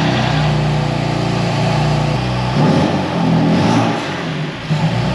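BMW S55 twin-turbo inline-six running just after its first start following a crank hub replacement; its note shifts about two and a half seconds in.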